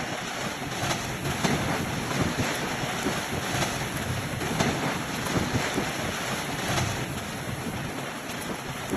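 A hailstorm with strong wind: a steady rush of noise with many small hailstone hits scattered through it.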